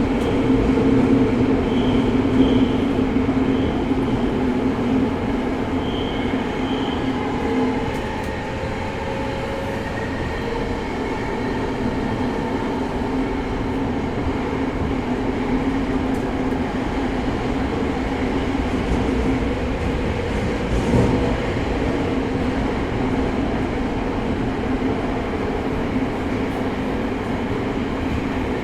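Tokyo Metro 05 series subway train running through a tunnel, heard from inside the car: steady wheel and rail noise with the hum of its Mitsubishi IGBT inverter and traction motors. The hum is strongest for the first several seconds, then eases slightly, and a single knock comes about two-thirds of the way through.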